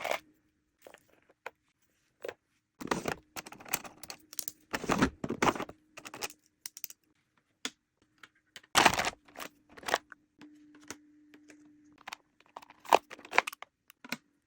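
Close-up sounds of an order being packed: small items and wrapping handled in irregular bursts of clicks, taps and crinkling, with a few louder knocks.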